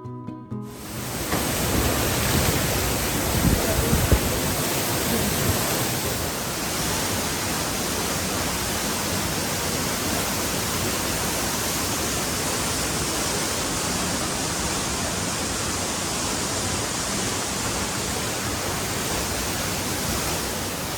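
Waterfall rushing: a loud, even roar of falling water that holds steady, with a few low bumps in the first few seconds.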